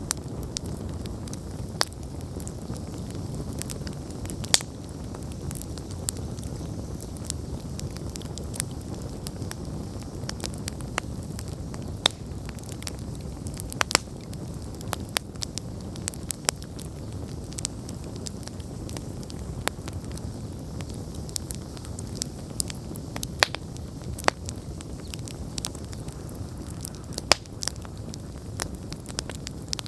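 Wood campfire burning: a steady low rush of flame with irregular crackles and sharp pops of burning wood, a few of them louder.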